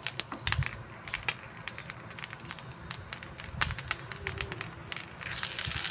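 Butter melting on rice in a hot wok: scattered crackling pops, with a faint sizzle building near the end. A couple of soft knocks come in between.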